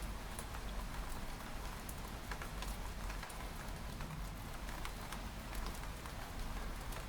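Steady rain on a window pane: an even hiss with many sharp taps of single drops hitting the glass, over a low steady rumble.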